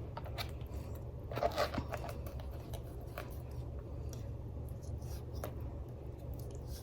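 Trimming fat off raw, partly frozen chicken breasts: scattered small clicks and scrapes of cutting, over a steady low hum.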